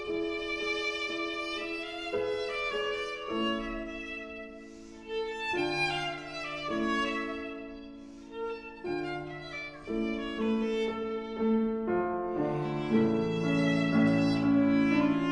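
Viola playing a slow line of sustained bowed notes over a quieter piano accompaniment, swelling louder in the last few seconds.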